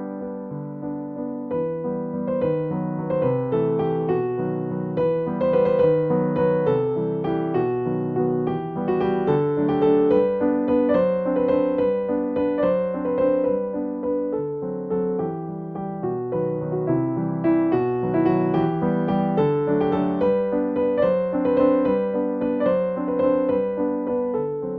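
Background piano music: a gentle melody with chords, playing steadily.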